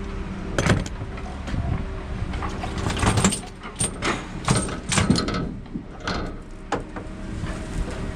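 Metal clanks, knocks and rattles of tools and parts being worked on heavy machinery, over a steady engine hum.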